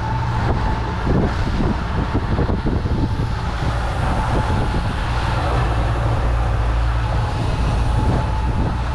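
Boat engine running steadily at trolling speed, a low even drone.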